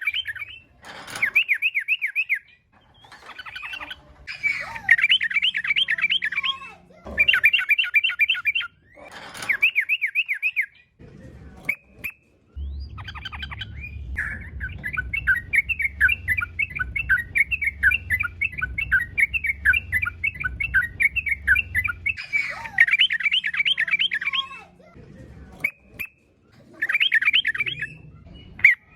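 Yellow-vented bulbul (trucukan) singing loud, rapid, bubbling warbled phrases in short bursts a second or two long, with short pauses between them. A longer unbroken run of chattering comes in the middle, over a low steady hum.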